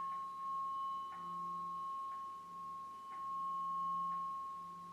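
Tuning forks ringing: a steady high tone held throughout, with a lower hum that swells and fades in slow waves.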